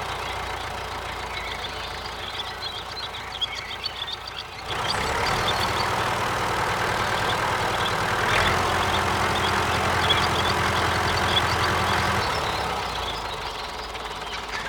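Small motor of a DIY miniature construction machine running steadily, getting louder about five seconds in and easing off again near the end.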